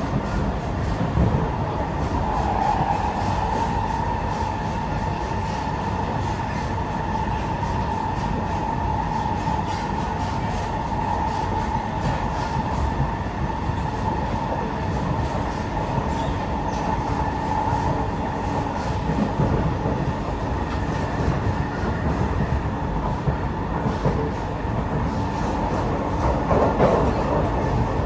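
Kawasaki–CRRC Sifang C151A metro train running at speed, heard inside the car: a steady rumble of wheels on rail with a high, steady whine over it. The whine fades a little past halfway and comes back briefly near the end.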